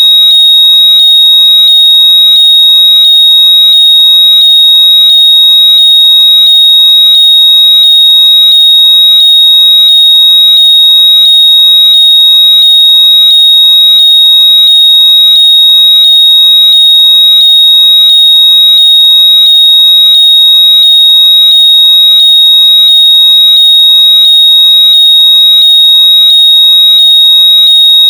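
Very loud, piercing high-pitched electronic tone, held steady with a quick, even pulsing and faint repeating upward sweeps beneath it. It is a locator noise played through lost earbuds or headphones so they can be heard and found.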